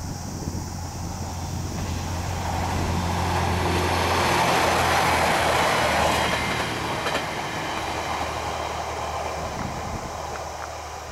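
A train passing on the San'in Main Line, its sound swelling to a peak about five seconds in and then fading. A steady low hum runs under the first half, and a few sharp clicks come near the middle.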